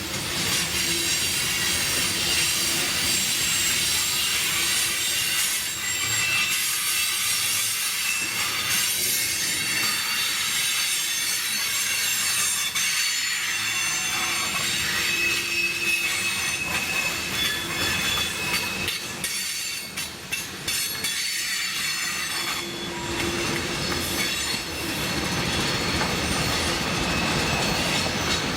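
Freight cars of a manifest train rolling past, steel wheels squealing with high-pitched tones against the rail, with some clickety-clack from the wheels. The sound dips briefly about two-thirds of the way through, then picks up again.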